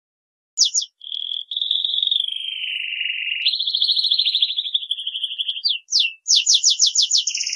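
Domestic canary singing a long unbroken song of rolling trills. It steps down in pitch, jumps back up, and ends in a fast run of repeated notes.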